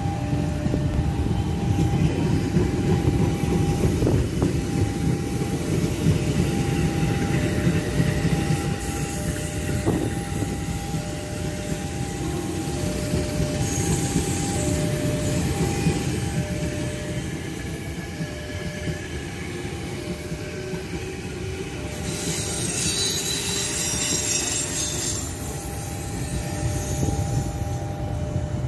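KRL electric commuter trains passing close by, with a steady rumble of wheels on the rails. Through it a level-crossing warning alarm sounds, alternating between two tones. A high wheel squeal rises about three-quarters of the way through.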